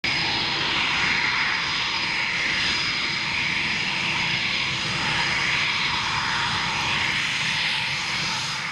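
Jet aircraft engine running steadily, a loud rushing roar with a thin high whine, cutting in suddenly and fading away near the end.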